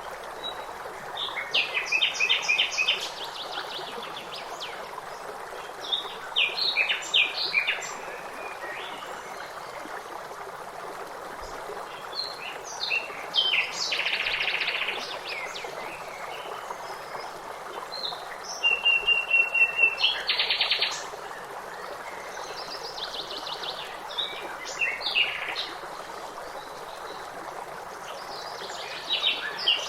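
Songbirds singing in short bursts of rapid trills and chirps, several phrases with pauses between them. Under them runs a steady stream of running water.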